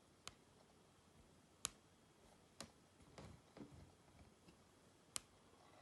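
Near silence: room tone with a few faint, sharp clicks at irregular intervals and some soft low rustles.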